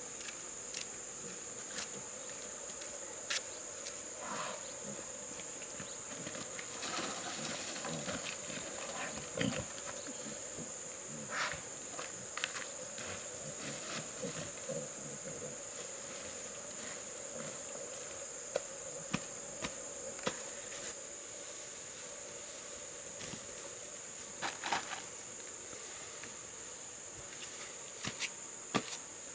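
Steady high-pitched insect drone, with scattered short clicks and knocks of handling over it.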